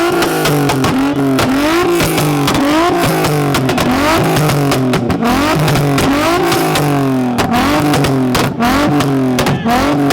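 Performance car engines revved hard over and over against a two-step launch limiter, the pitch climbing and dropping about once a second, with rapid sharp popping bangs from the exhaust.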